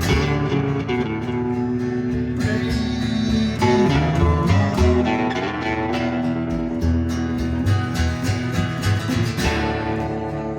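Live band playing an instrumental passage with no singing: guitar to the fore over bass and a steady drum beat.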